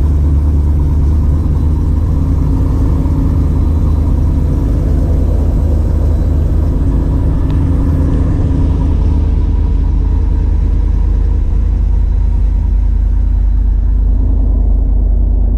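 Vortech-supercharged 1995 Ford Mustang engine running steadily while warming up after a cold start, with a deep, even rumble.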